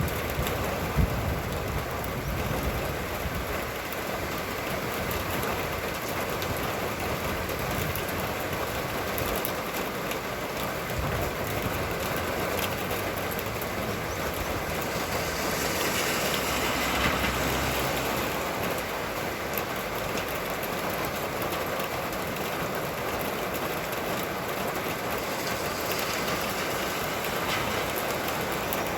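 Steady rain falling, with gusty wind rumbling in the low end; it swells louder for a few seconds just past the middle.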